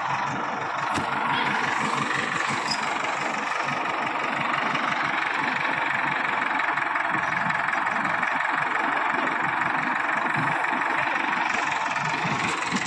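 Heavy diesel engine running steadily at low revs, with a rapid low pulsing from its firing.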